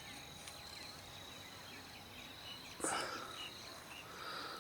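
Faint outdoor ambience: a steady high insect drone with scattered small chirps, and a brief rustle-like noise about three seconds in.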